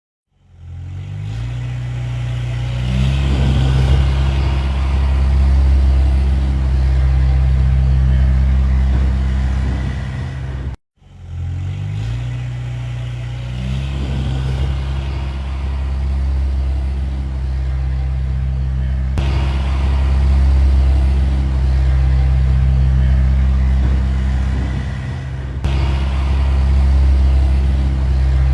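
Tractor engine speeding up from idle and then running steadily at a higher speed. About eleven seconds in the sound drops out abruptly for a moment, then the engine picks up and speeds up again.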